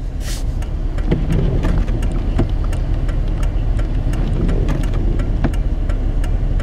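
A steady low rumble of a vehicle and wind, with irregular small sharp ticks scattered through it, like wind-driven snow striking the vehicle.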